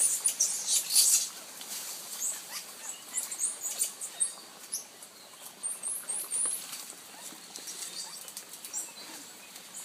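Small monkeys squeaking and chirping in short, high-pitched calls that rise and fall, with a few sharp clicks and knocks in the first second or so.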